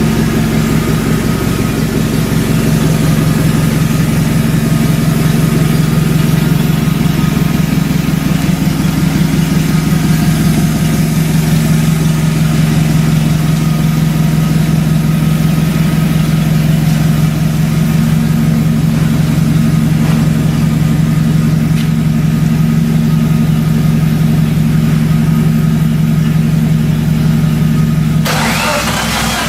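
Subaru EJ205 2.0-litre turbocharged flat-four engine idling steadily at an even pitch. About a second before the end, the engine sound gives way to a hiss.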